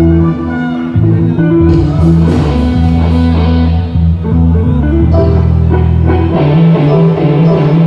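Live band playing through a PA system: guitar and bass guitar over a drum kit, with a cymbal crash about two seconds in.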